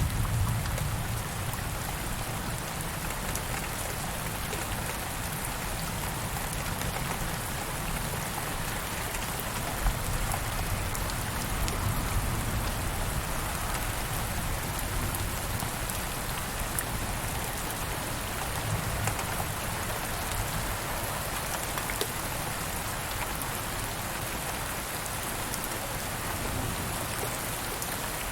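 Steady rain falling on a surface, with a few sharper drop ticks here and there. A low rumble of thunder fades out in the first second or so.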